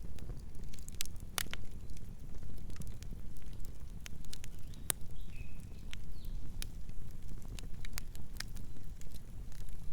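Campfire burning: wood crackling with irregular sharp pops of varying strength over a steady low rumble of the flames.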